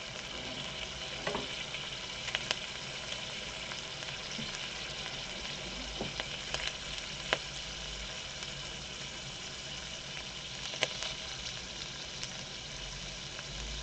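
Pork belly frying in a pan: a steady sizzling hiss with scattered sharp pops of spattering fat.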